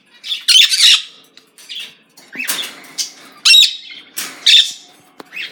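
Pet birds squawking: a series of short, harsh, high-pitched calls, about one a second.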